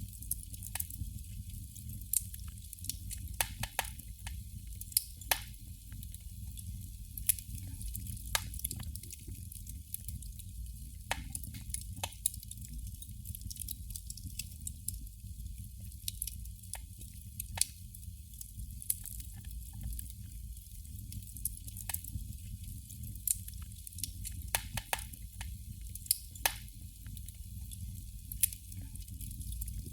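Candle flame crackling: irregular small sharp crackles and pops, a few louder than the rest, over a steady low rumble.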